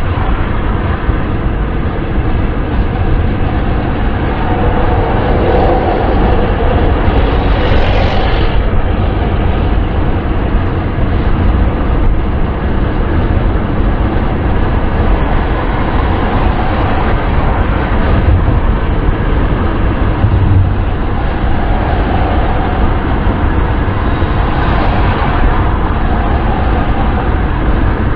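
Steady wind and road noise of a car driving at speed, deep and rumbling, swelling briefly twice.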